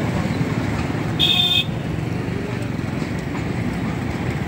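Passenger train coaches running past with a steady low rumble, mixed with road traffic noise. About a second in, a short high-pitched horn toot is the loudest sound.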